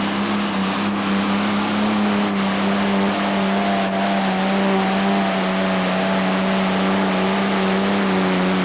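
Modified pulling tractor's engine running at full throttle during a pull, holding a loud, steady pitch.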